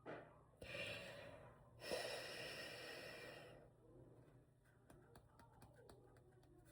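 A woman's audible breathing: a breath in, then a longer breath out of about two seconds, followed by near silence with a few faint ticks.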